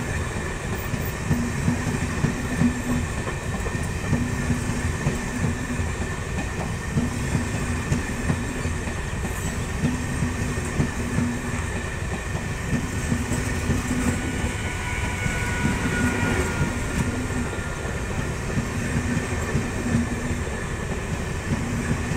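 Passenger coaches of an Indian Railways express train passing close by at speed: a steady rumble of steel wheels on the rails, broken by a continual clickety-clack of wheel knocks.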